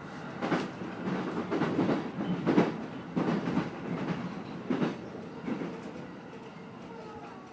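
Commuter train heard from inside the carriage: its wheels knock over rail joints and points, about eight irregular clacks over a steady rumble, as it slows into a station. The knocks die away near the end as the train nears a stop.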